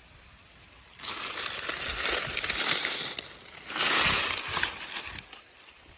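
Dry corn stalks, husks and leaves behind a combine rustling and crunching as they are pulled aside by hand to search for lost kernels, in two louder spells after about a second.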